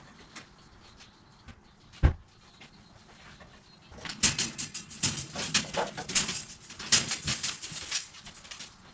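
A single heavy thump about two seconds in, then several seconds of quick clattering and rustling: household things being handled and moved.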